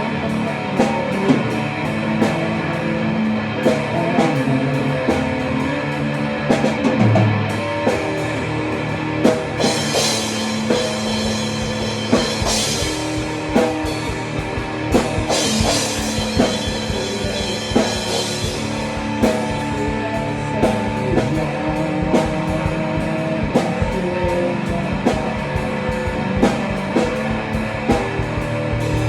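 Rock music played by a band, with a steady drum-kit beat and guitar.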